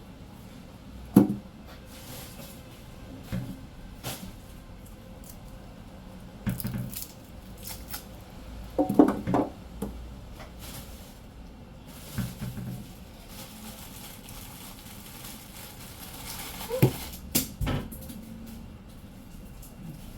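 Scattered knocks and clinks of kitchen utensils and dishes being handled, about eight separate short sounds spread out, the sharpest about a second in and a cluster about nine seconds in.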